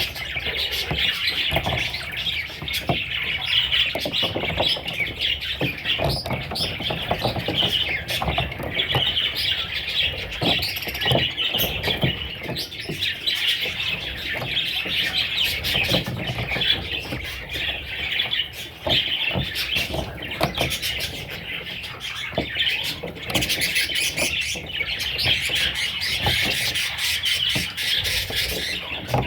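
Young parrots chirping in a continuous, dense chatter, mixed with many small clicks and scratches.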